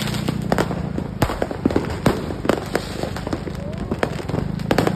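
New Year fireworks and firecrackers going off: many sharp, irregular cracks and pops in quick succession, over a low steady hum.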